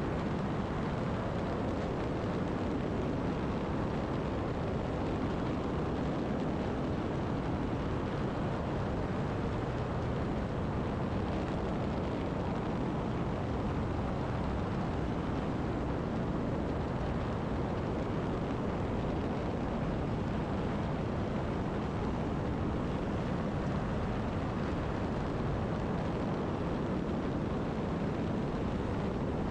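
Zenith STOL CH 750 Super Duty light airplane in flight, its engine and propeller droning steadily with wind noise, unchanging throughout.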